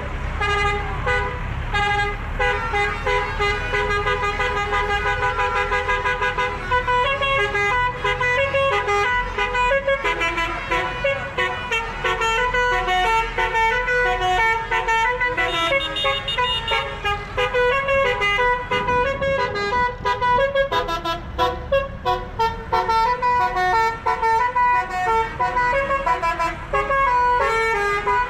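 Vehicle horns sounding a continuous tune in stepped notes, over the low rumble of passing tractor engines.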